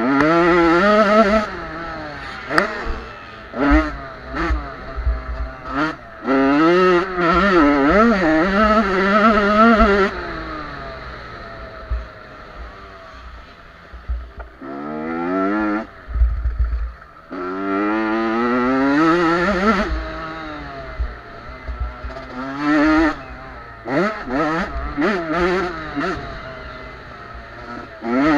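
Small-displacement junior motocross bikes (50–85 cc) racing, their high-revving engines rising and falling in pitch as they accelerate and pass one after another, loudest in several surges with quieter gaps between.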